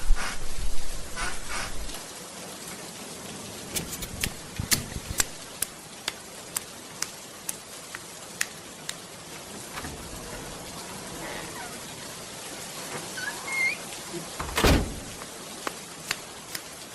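Steady rain, with sharp ticks about twice a second from a few seconds in and one heavier thump near the end.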